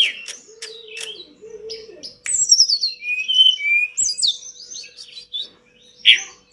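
Tledekan gunung songbird singing fast, varied phrases of high chirps and sliding whistles. A low, wavering hooting call sounds under the song for the first two seconds.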